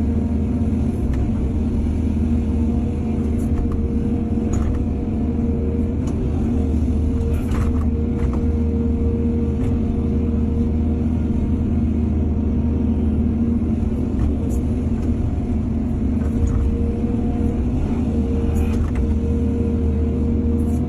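Excavator's diesel engine running steadily with a pitched hum, with a few sharp metallic clanks scattered through.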